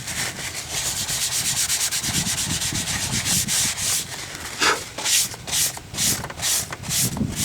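Cloth rag rubbing, fast and even at first, then in slower separate strokes about two a second near the end: the wiping of an engine-oil dipstick before reading the level.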